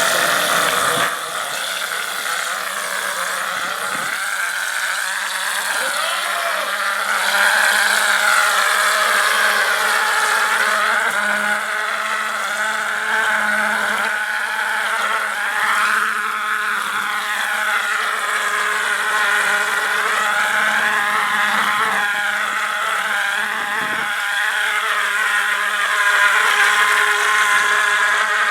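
A motor running steadily, its pitch wavering slightly up and down.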